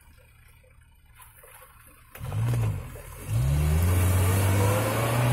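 Off-road vehicle engine blipped once about two seconds in, then revved hard and held at high revs, as for a run at a slope.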